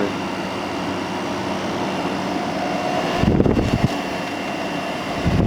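2017 Frigidaire 8,000 BTU window air conditioner running with a steady hum from its fan and compressor while it cools, with two short stretches of low rumble, about three seconds in and near the end.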